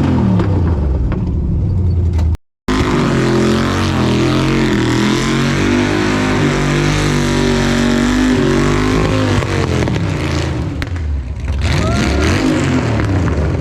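The car's 416-cubic-inch LS3 V8 running hard, its pitch rising and falling as it revs and drives by. The sound cuts out abruptly for a moment a couple of seconds in.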